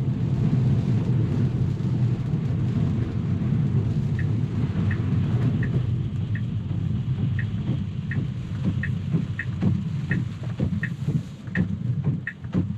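Steady low tyre-and-road rumble inside a Tesla's cabin on a wet road. From about four seconds in, the turn-signal indicator ticks about once every 0.7 seconds. The rumble grows uneven near the end.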